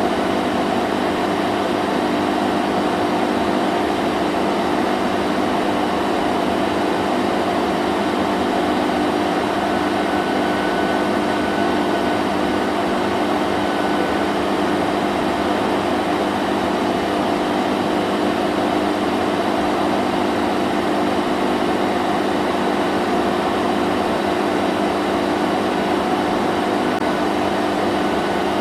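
Vacuum cleaner running steadily: a constant motor hum over rushing air, with no change in pitch or level.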